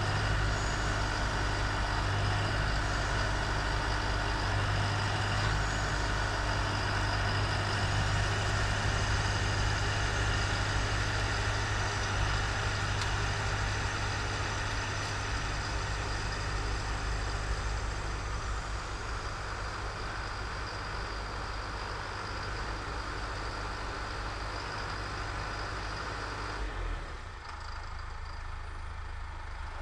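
A snowblower's engine running steadily while it clears snow. About three-quarters of the way in, the engine note drops lower and the sound eases off.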